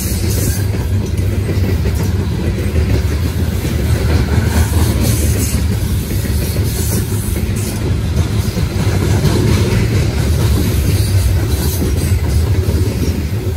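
Loaded CSX coal train's hopper cars rolling past: a steady, heavy rumble of steel wheels on the rails.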